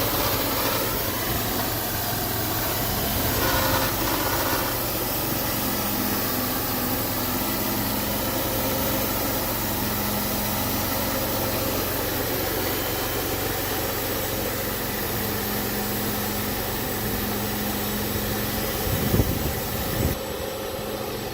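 Wood-Mizer LT40 portable band sawmill running steadily, its blade sawing lengthwise through an 8x8 timber. Near the end there are a couple of knocks, and the high hiss drops away.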